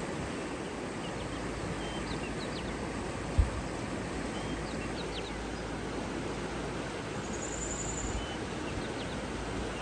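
A steady outdoor rush of wind or water, with scattered short bird chirps and a brief high trill about three-quarters of the way in. A single low thump about a third of the way in is the loudest moment.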